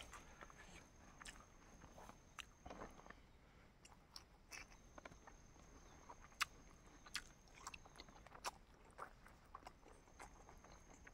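Faint mouth sounds of a person chewing and biting food, with scattered small clicks and crunches.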